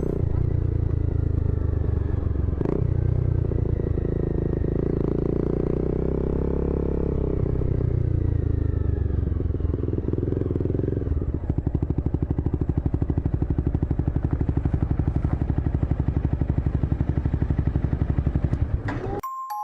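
Motorcycle engine running, its pitch rising and falling gently; about eleven seconds in it changes to a louder, even, rapid pulsing, then cuts off abruptly near the end.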